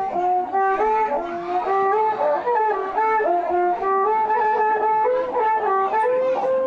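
Ritual dance music played on a reedy wind instrument, a melody of held notes stepping up and down, loud and steady throughout.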